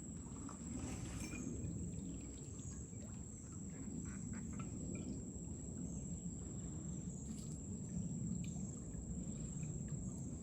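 Outdoor ambience: a steady, high-pitched insect drone over a low rumble of wind and handling noise on the microphone.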